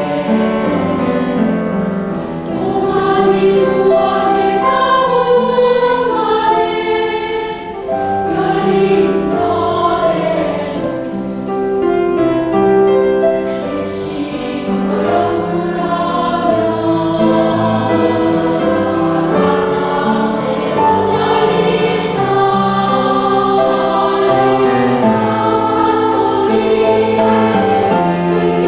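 Choir singing a Buddhist hymn in several parts, with held notes and piano accompaniment.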